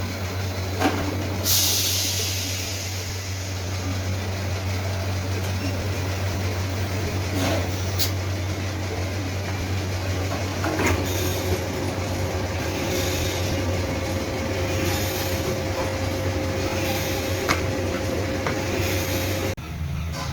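Steady low machinery hum with occasional knocks and a brief hiss about a second and a half in. A steady whine joins about eleven seconds in, and both cut off shortly before the end.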